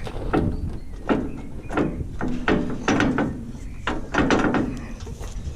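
Irregular clicks and knocks, about two a second, from the parts of a disc mower being handled.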